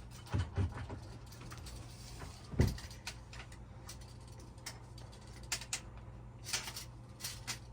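Small handling sounds of measuring and marking at a cabin wall: a few soft knocks in the first seconds and one about two and a half seconds in, then a run of sharp clicks near the end, over a steady low hum.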